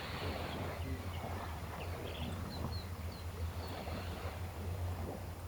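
Sea waves washing ashore: a steady wash of surf over a constant deep rumble. A couple of short, high bird chirps come about two and a half seconds in.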